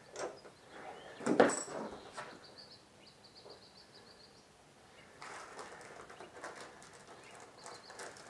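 Motorcycle drive chain being handled and fed around the sprocket: one sharp metal clank a little over a second in, then light rattling and clinking of the chain links over the last few seconds.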